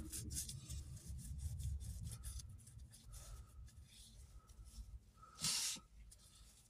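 Paper damp with WD-40 rubbing over the commutator segments of a car heater blower motor's armature: faint, scratchy wiping with many small scrapes. A brief louder scrape or knock about five and a half seconds in.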